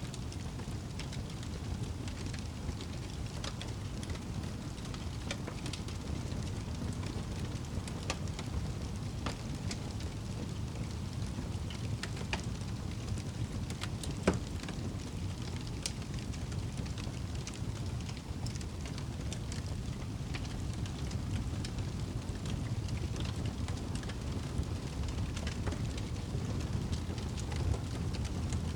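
Wood fire burning in a fireplace: a steady low rumble of the flames with scattered crackles and pops, and one sharper crack about halfway through.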